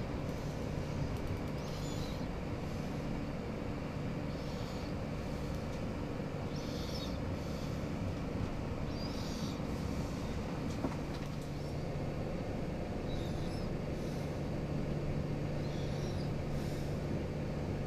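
Passenger train running: a steady low rumble and hum, with a short high-pitched swish recurring about every two seconds.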